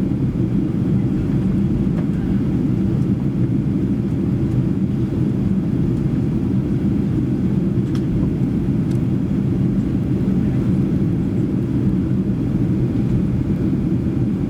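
Steady low rumble inside a Boeing 737-800 cabin: its CFM56-7B engines and the airflow around the fuselage, with a few faint clicks.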